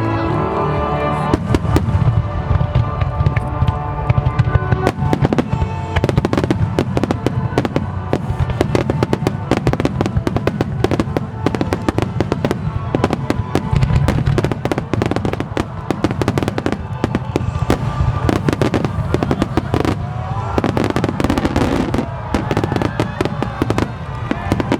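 Aerial fireworks bursting in a rapid, continuous barrage, many explosions and crackles a second over a low rumble. Music plays underneath, most plainly in the first few seconds.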